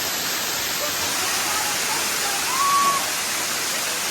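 Steady rush of falling water, with a brief high tone about two and a half seconds in.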